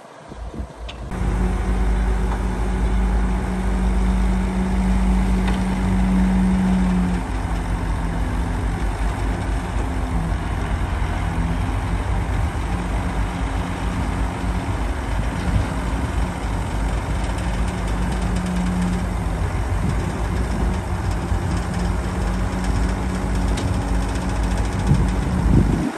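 Heavy diesel earthmoving machinery running steadily, with a low engine hum that wavers slightly in pitch. It starts abruptly about a second in.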